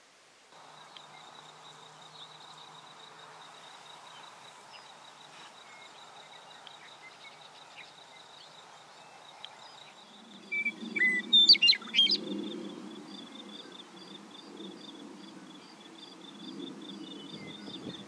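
Wild birds calling: a steady, pulsing high trill runs on, and about ten seconds in a bird gives a quick burst of loud, sharp sweeping call notes, the loudest sound, over a low rumble that sets in at about the same time.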